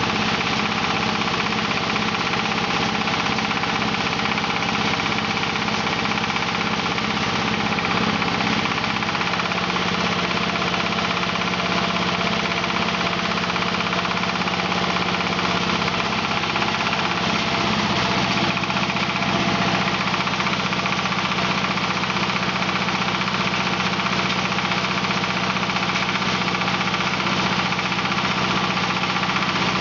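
Diesel engine driving a wood hammer mill, running steadily with a dense mechanical din. Its note shifts slightly about two-thirds of the way through.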